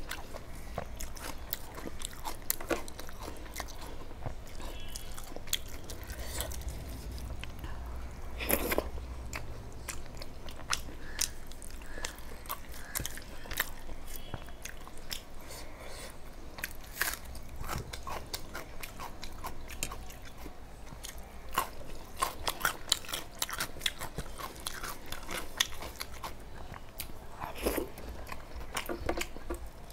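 Close-miked chewing and crunching of a mouthful of rice and curry eaten by hand, with many sharp, irregular mouth clicks.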